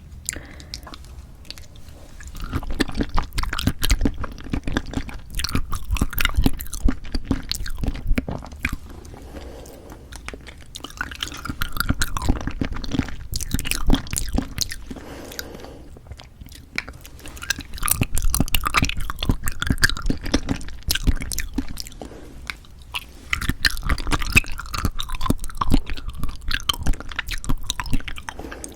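Close-miked chewing of cheonhyehyang citrus cup jelly, in four bouts of chewing with short quiet pauses between.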